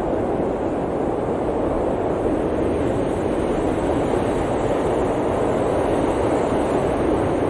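Steady blizzard wind: a deep, even rush of noise with no gusting breaks.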